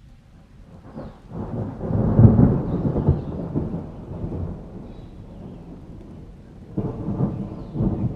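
Thunder rumbling in a rainstorm: a long low roll builds about a second and a half in, peaks and dies away, then two shorter rumbles follow near the end, over steady rain.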